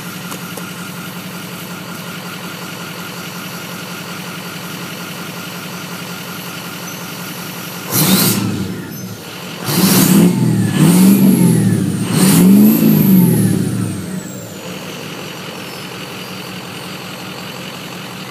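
Ford 6.0L Power Stroke V8 turbodiesel idling through a new 4-inch Diamond Eye exhaust with the muffler removed. About eight seconds in it is revved about four times, each rev rising and falling, with a high whistle winding down after the last one. It then settles back to a steady idle.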